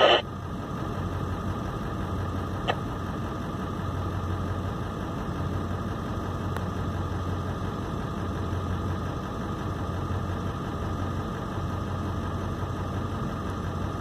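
Car engine idling, a steady low hum heard from inside the cabin, with one faint click about three seconds in.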